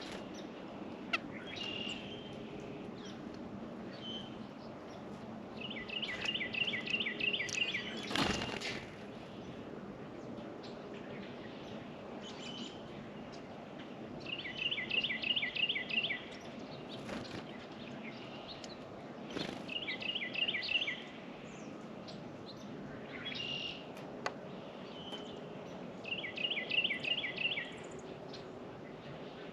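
A songbird at a feeder repeats the same song four times: a trill of quick, evenly spaced two-part notes lasting about two seconds each. Short chip calls come in between, and there is a brief rushing sound about eight seconds in.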